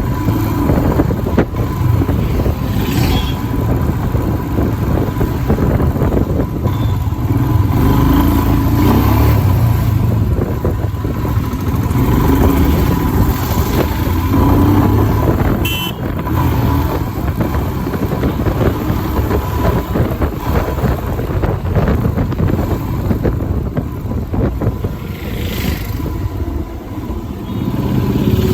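Royal Enfield Himalayan's single-cylinder engine running as the motorcycle is ridden, a steady low engine note with road and wind noise.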